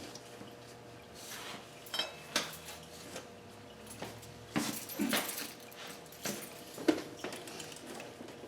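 Hand tools and metal engine parts clinking and knocking during disassembly work: scattered sharp clinks, one ringing briefly about two seconds in, and the loudest knock near the end.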